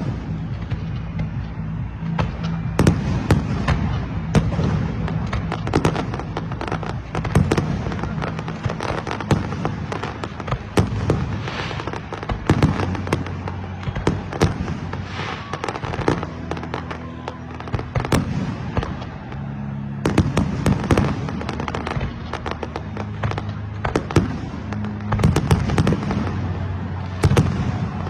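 New Year fireworks going off in a dense, irregular barrage of sharp bangs and crackles, several a second at the busiest moments.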